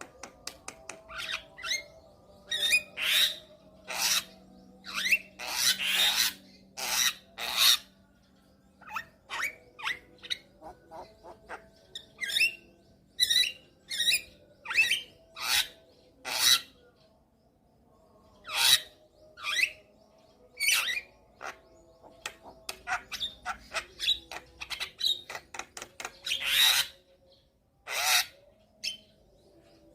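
Javan myna (jalak kebo) calling in a rapid run of short, harsh calls and whistles, with a pause of about two seconds in the middle.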